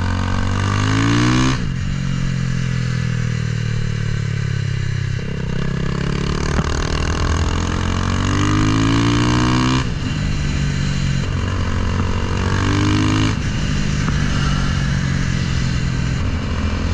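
Honda Grom motorcycle with a swapped-in CBR300R single-cylinder engine under way: revs climb and drop at a gear change about a second and a half in, fall for a few seconds as it eases off, then climb again through upshifts about ten and thirteen seconds in before holding steady.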